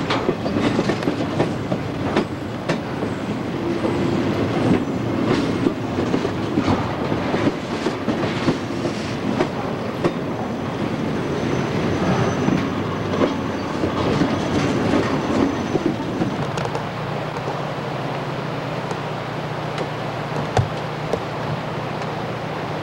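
Double-stack container well cars rolling slowly past, their steel wheels clicking and rumbling over the rail with a faint thin wheel squeal. About two-thirds of the way through, the clicking mostly dies away and a steady low hum remains as the train slows for a stop.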